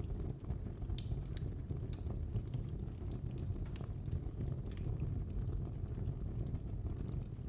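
Fire burning in a fireplace: a steady low rumble of flames with irregular sharp crackles and pops scattered through.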